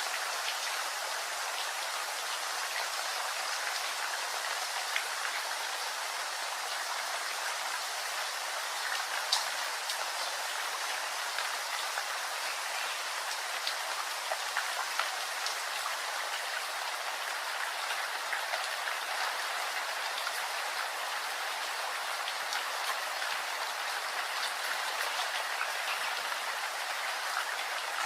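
Steady rain falling, an even hiss with scattered individual drops striking a surface.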